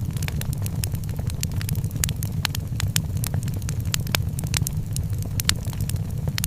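Wood fire crackling in a fireplace: many sharp, irregular snaps and pops over a steady low rumble.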